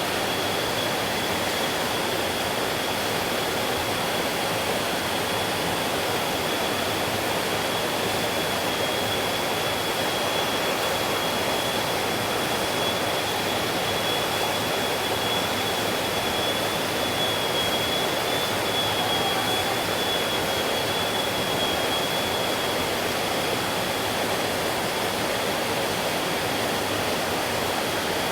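Mountain stream rushing steadily over rocks, with a thin, steady high tone above the water.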